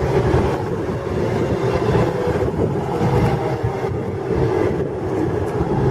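Class 221 Super Voyager diesel-electric multiple unit pulling into the platform, a steady low rumble with a constant hum from its diesel engines.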